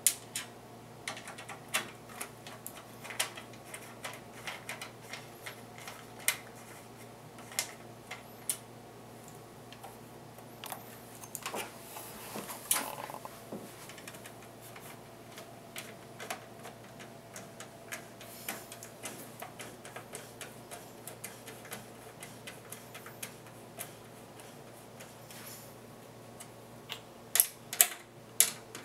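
Screwdriver driving small screws to mount an optical drive in a PC case: irregular small metallic clicks and ticks, with a quick run of louder clicks near the end.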